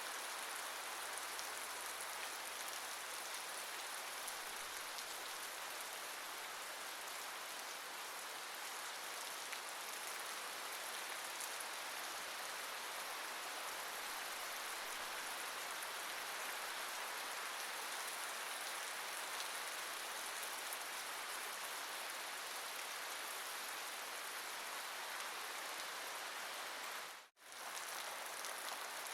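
Steady rain falling, an even hiss of many drops, that cuts out for an instant near the end.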